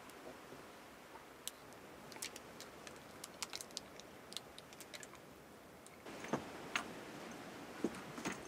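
Scattered light clicks and taps of small objects being handled, over a faint steady hiss that grows a little louder about six seconds in.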